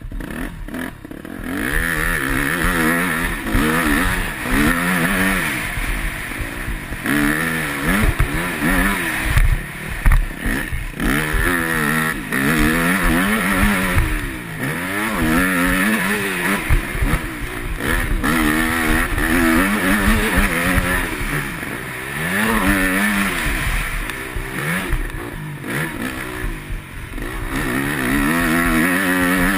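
Yamaha YZ250F 250cc single-cylinder four-stroke motocross bike ridden hard, the engine revving up and falling back over and over every couple of seconds as the throttle is worked, with occasional knocks.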